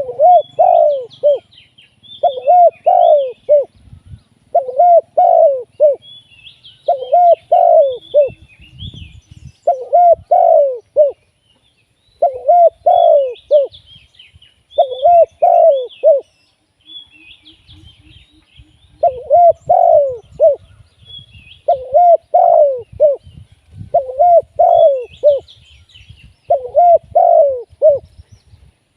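Spotted dove cooing as a decoy, repeating a short phrase of several swooping notes about once every two seconds, with a pause about two-thirds of the way through. Small birds chirp faintly above it.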